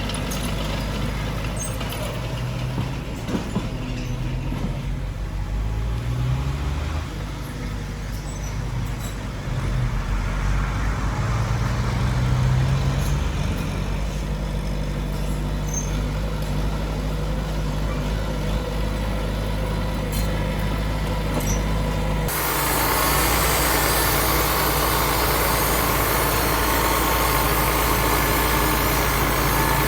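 Heavy diesel engines of earthmoving machinery running, the engine note rising and falling under changing load. About two-thirds of the way through the sound switches abruptly to a louder, steadier rushing noise.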